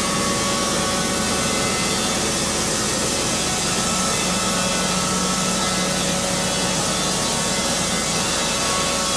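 Wood-Mizer band sawmill running steadily, its blade cutting lengthwise through a log.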